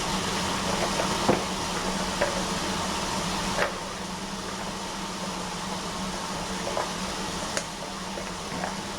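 Steady room noise with a low hum and hiss, broken by a few faint, sharp knocks and clicks.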